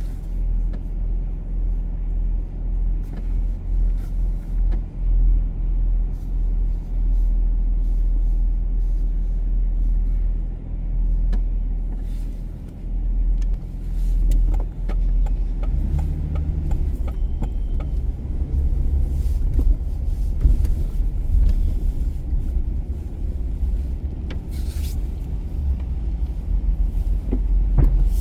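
Car on the move: a steady low rumble of engine and tyres on the road, with a stronger, deeper engine hum coming in about halfway.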